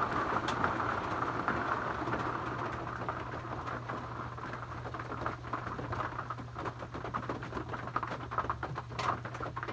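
Heavy rain falling in thick drops: a steady hiss dense with close, sharp drop ticks, growing a little quieter over the first few seconds.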